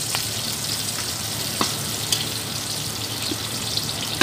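Garlic and sliced onions sizzling steadily in hot oil in a wide metal wok as they are sautéed, with a few sharp clicks of a metal spatula against the pan as they are stirred.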